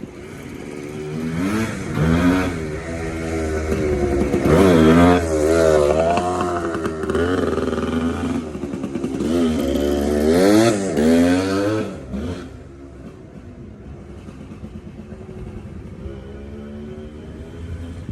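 Suzuki TC125 dirt bike's single-cylinder two-stroke engine revving up and down several times, then settling to a quieter, steady run about twelve seconds in. The engine is running well, in the owner's word "good".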